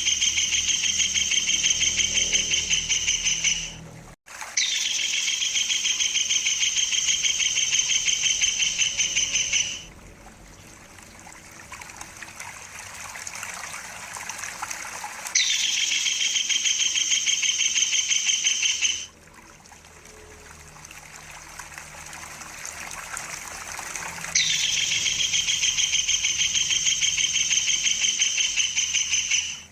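Kingfisher giving its rolling trill call: four long, loud, rapid trills of about four to five seconds each. Between them a stream trickles and splashes.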